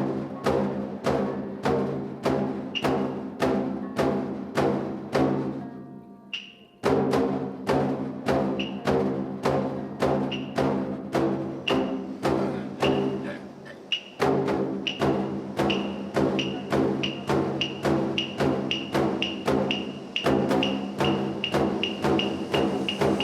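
Tokiwazu shamisen accompaniment: single plucked notes, each ringing and dying away, about two a second, with a short pause about six seconds in and the notes quickening near the end.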